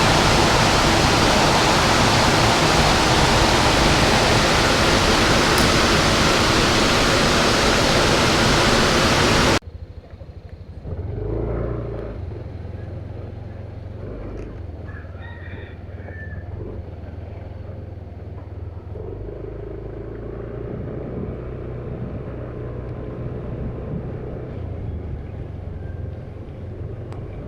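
Loud, steady rush of a fast-flowing, rain-swollen stream. About ten seconds in it cuts off abruptly to a much quieter, steady low engine rumble.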